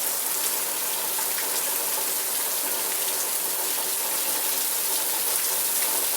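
Steady heavy rain falling, a dense even hiss with scattered drop ticks.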